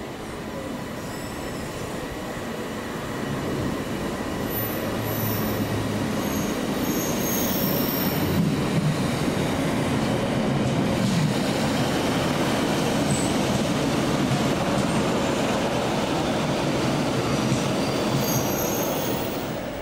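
A train running on the track, the rumble building over the first few seconds and then staying loud. Its wheels give short spells of high-pitched squeal, once a few seconds in and again near the end.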